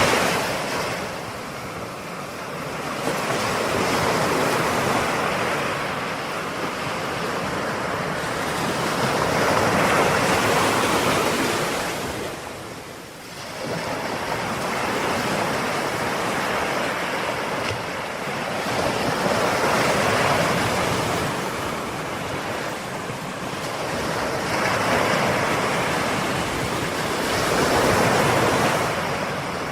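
Ocean surf: waves breaking and washing ashore in a steady, even rush, swelling and ebbing every few seconds, with one brief lull about halfway through.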